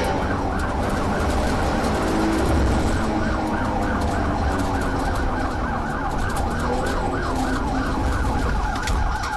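Police cruiser siren in its fast yelp mode, rising and falling several times a second without a break, over the low rumble of the patrol car's engine and road noise during a pursuit.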